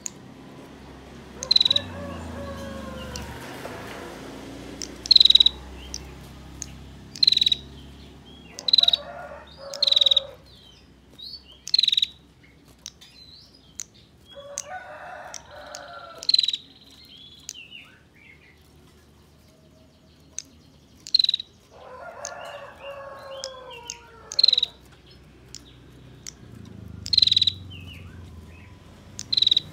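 Female prenjak calling: sharp, very short, loud chirps repeated about every one to two seconds. Three longer, lower calls that fall in pitch sound in the background, a rooster crowing.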